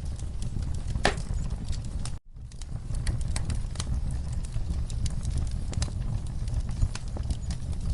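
Wood campfire crackling and popping over a steady low rumble of burning, with one sharper pop about a second in. The sound cuts out completely for a split second a little after two seconds in, then the crackling carries on.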